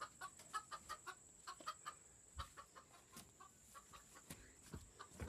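Bantam chickens clucking faintly in quick, short notes, with a steady thin high tone underneath.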